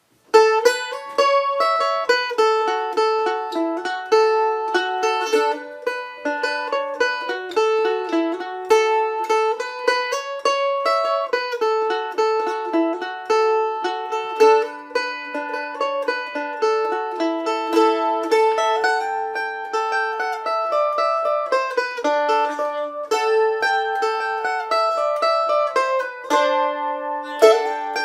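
Mandolin playing a slow melody in quick repeated pick strokes, with a high note ringing steadily under the changing tune.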